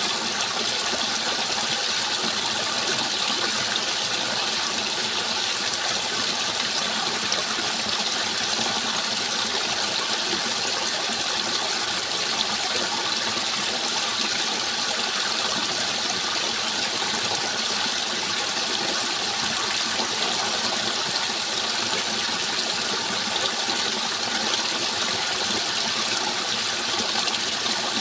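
Steady rushing water, like a stream or small waterfall, with an even hiss that does not change.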